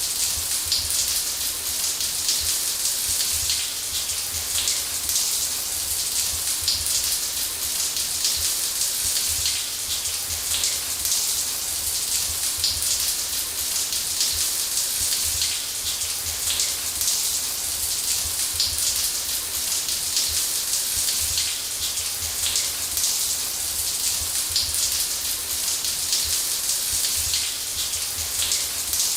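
Shower water spraying steadily onto a hard surface: an even hiss strongest in the high end, dense with the patter of individual drops, over a low rumble.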